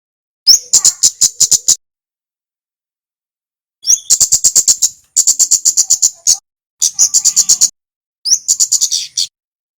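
A male kemade, a small songbird, gives a loud call five times. Each call starts with a quick rising whistle and runs into a fast, dry chatter of high, sharp notes, about eight or nine a second, lasting about a second.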